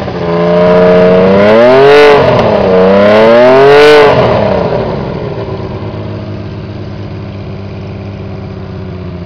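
Honda CBX 1000 inline-six motorcycle engine, with aftermarket trumpet exhaust, revved twice, rising and falling in pitch, then dropping back to a steady idle about four and a half seconds in.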